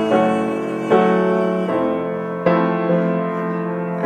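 Piano playing an A major chord and letting it ring, struck again about a second in and once more past the middle.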